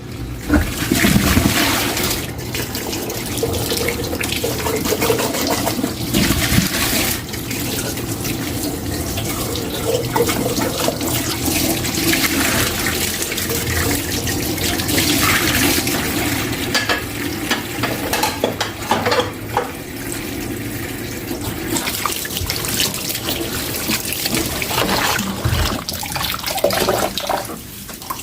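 Kitchen tap running steadily into a sink during hand dishwashing; the flow is cut off near the end.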